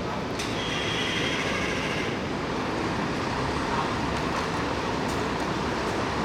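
Steady street traffic noise, with a high-pitched squeal starting about half a second in and lasting about a second and a half.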